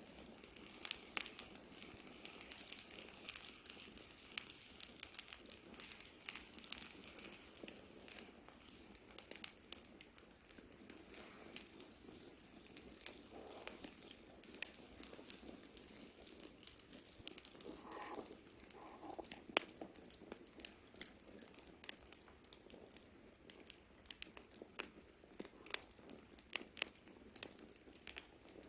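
Wood campfire crackling, with many sharp irregular pops and snaps over a soft hiss.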